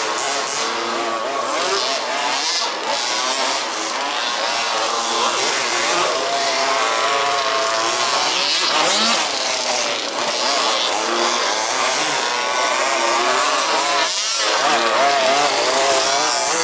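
Several 1/5-scale two-wheel-drive RC buggies racing, their small two-stroke petrol engines overlapping and rising and falling in pitch as they accelerate and back off around the track.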